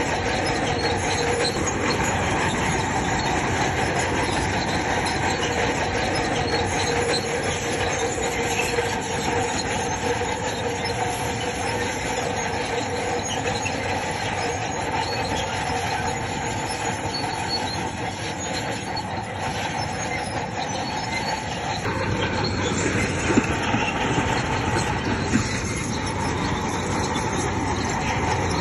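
Crawler bulldozer working: its engine running under the continuous grinding and squealing of steel tracks. The tone shifts about 22 seconds in, and two sharp knocks follow shortly after.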